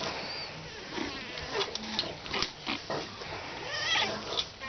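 Seven-week-old pug puppies whimpering and squeaking with short wavering high cries, the clearest near the end, among light scuffling and clicking.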